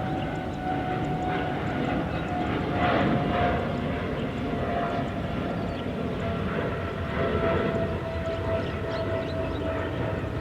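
Jet airliner engines running, a steady loud rush with a whine that slowly falls in pitch.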